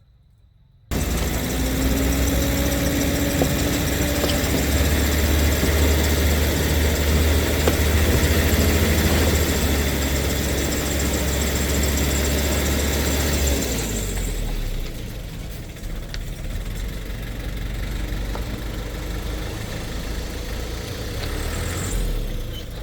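Engine of heavy construction machinery running. It cuts in abruptly about a second in after near silence, then drops to a lower, steadier level about two-thirds of the way through.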